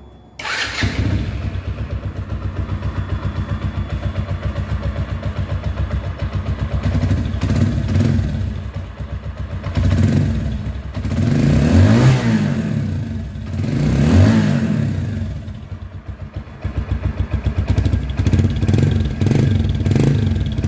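Bajaj Discover 135's single-cylinder four-stroke engine and exhaust running after an engine rebuild for a timing-chain noise problem. It idles with an even pulse, is revved up twice in the middle, and gets a few quick throttle blips near the end.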